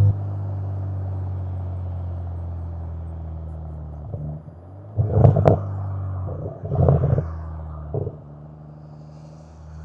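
Toyota Supra MK5 with an RK Titanium aftermarket exhaust, running with a steady low exhaust drone that slowly fades. It is broken by several short, loud bursts of exhaust noise around the middle of the stretch.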